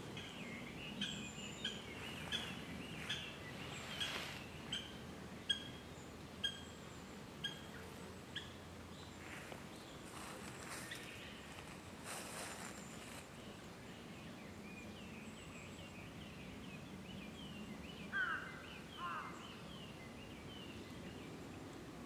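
Wild birds calling outdoors: about ten short whistled notes, a little under a second apart. Later comes a quicker run of chirps, and two louder sweeping calls about eighteen seconds in.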